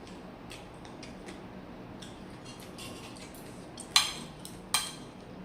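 Cutlery clinking against a plate: faint small taps, then two sharp ringing clinks a little under a second apart near the end.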